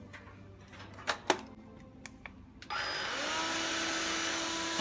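Vacuum cleaner switched on about two and a half seconds in: its motor spins up with a short rising whine and then runs steadily and loudly. A single knock comes about a second in, before it starts.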